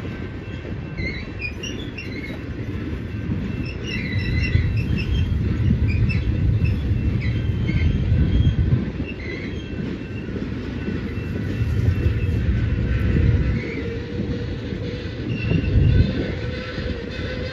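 Freight train's loaded flatcars rolling slowly past, being shoved in reverse: a steady low rumble that swells and eases several times, with short, scattered high squeals from the wheels on the rails.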